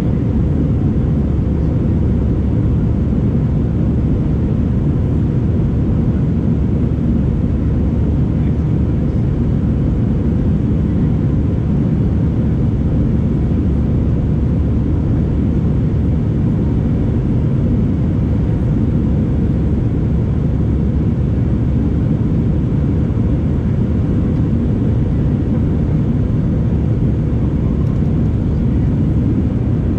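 Steady drone of a jet airliner heard inside the passenger cabin in flight: engine and airflow noise, deep and even, with no change in level.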